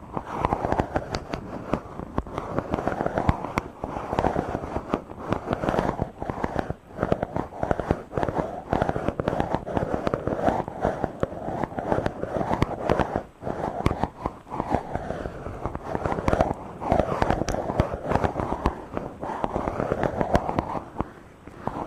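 A microphone being rubbed directly by hand: a dense, scratchy crackle of many small clicks that swells and eases in repeated strokes.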